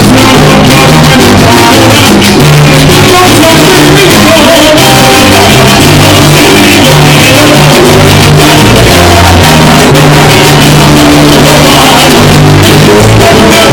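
A live band playing Latin music very loudly, with a bass line moving under steady percussion.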